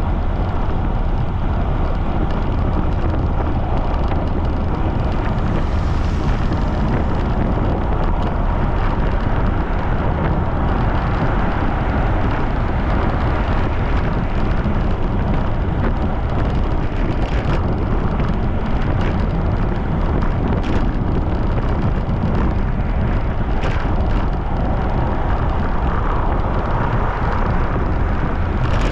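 Strong wind buffeting the camera microphone while cycling at speed: a steady, loud rushing rumble, with a few faint ticks in its latter half.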